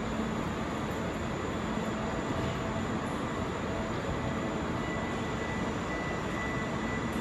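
Steady hum and hiss of a Kintetsu 80000 series Hinotori limited express standing at the platform with its onboard equipment running, and a faint high whine held throughout.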